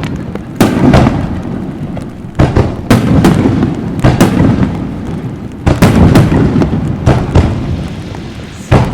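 Aerial fireworks shells bursting one after another: about eight loud booms in nine seconds, some in quick pairs, each followed by a rumbling echo that trails off.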